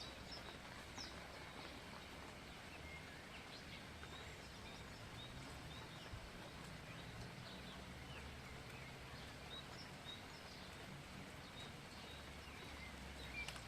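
Birds chirping faintly and sporadically in short high calls over a steady outdoor background hiss with a low rumble.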